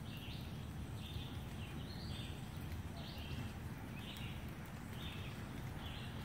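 A bird calling over and over, a short buzzy high note about once a second, over a steady low rumble.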